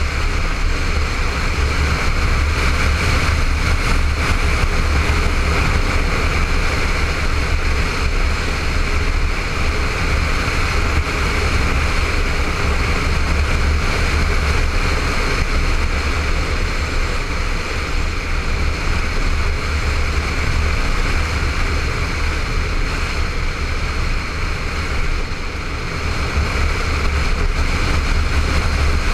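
Honda ST1300 motorcycle's V4 engine running steadily at riding speed, heard through a helmet-mounted camera, with a steady rush of wind and road noise over it; it eases slightly for a moment near the end.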